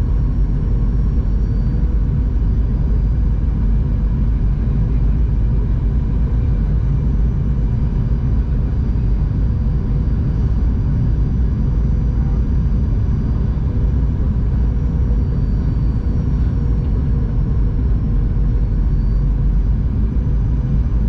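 Steady cabin drone of a Boeing 737-800 heard from a window seat: CFM56 engines and rushing airflow in an even, low-heavy rumble, with a faint steady hum running through it.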